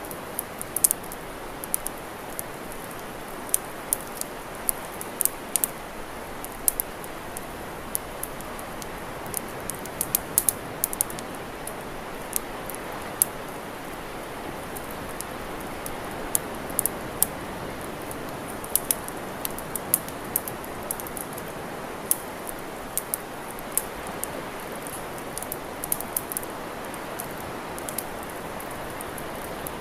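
Wood campfire crackling: frequent irregular sharp pops and snaps over a steady rushing hiss.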